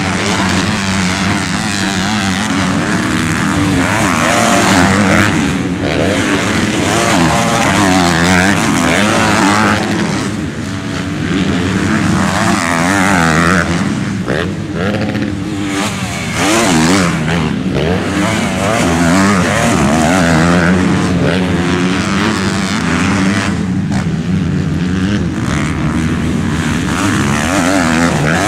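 Several motocross bike engines racing, revving up and down as they shift gears, with overlapping pitches that rise and fall.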